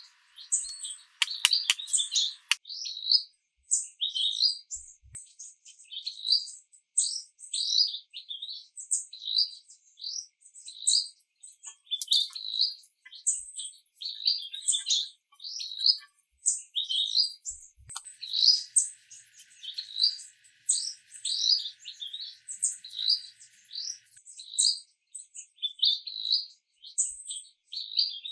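Birds chirping: a continuous series of short, high chirps, about two a second. A few sharp clicks come in the first two seconds.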